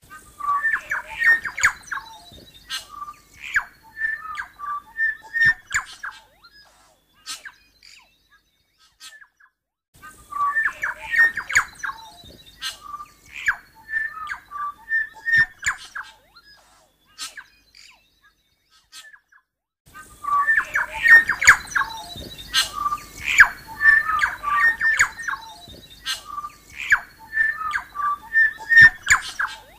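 A bird singing in phrases of clear notes mixed with sharp clicks. It comes in three bursts of about six, six and nine seconds, with silence between them.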